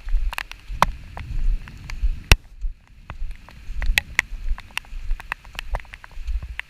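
Rain, with many irregular sharp drops tapping close to the microphone over a faint steady hiss. Wind gusts rumble on the microphone.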